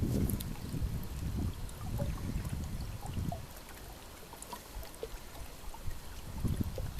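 Wind gusting over the microphone with a small winter stream trickling beneath. The gusts die down in the middle and pick up again near the end.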